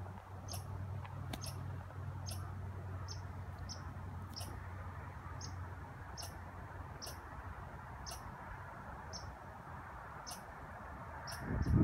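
A small bird repeats a short, high chip note about once every three-quarters of a second over a faint outdoor hiss. A low steady hum stops about halfway through, and a louder rustling noise starts right at the end.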